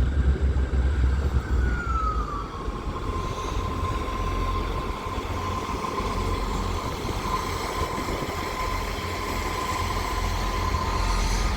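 A Northern Class 158 diesel multiple unit running at the platform: a steady low engine rumble with a whine that falls in pitch about two seconds in, then holds on one steady note.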